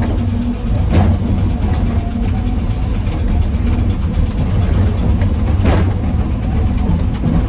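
Excavator's heavy diesel engine running steadily at work loading rock, with two sharp knocks, one about a second in and another near the end.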